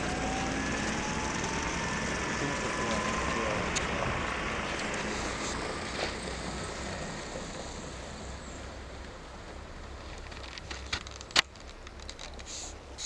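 A passing vehicle's road noise slowly fading away, with a few sharp clicks near the end.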